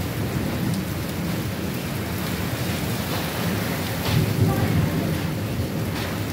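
Heavy rain pouring steadily onto wet paving, an even hiss over a deep low rumble that swells about four seconds in.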